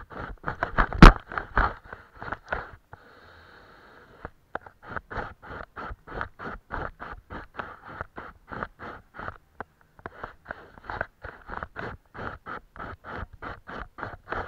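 Paintbrush rubbing back and forth on paper in quick, even strokes, about three a second. A sharp knock comes about a second in, and the strokes pause briefly around three seconds in.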